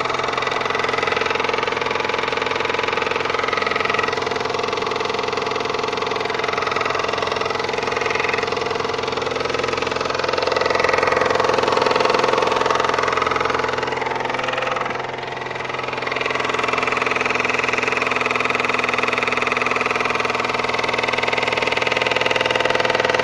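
Opel Z18XE 1.8-litre four-cylinder petrol engine idling cold with a steady knock. The knock comes from the plastic timing-belt cover, whose latch has come undone and left it loose after a timing belt and water pump replacement.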